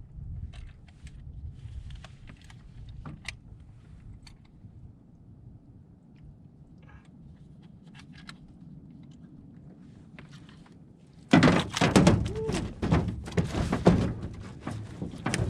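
A large bowfin flopping and thrashing in the boat: scattered small knocks and clicks of handling at first, then about eleven seconds in a sudden run of loud, rapid knocks and slaps as the fish fights.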